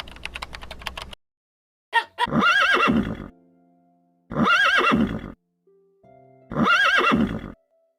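Horse whinnying three times, the same wavering neigh repeated about every two seconds, after a rapid run of clicks in the first second.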